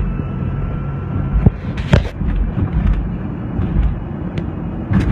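TRD-supercharged Toyota V8 pulling at part throttle, a steady low engine and road rumble heard from inside the cab. A few sharp knocks cut through it, about one and a half and two seconds in and again near the end.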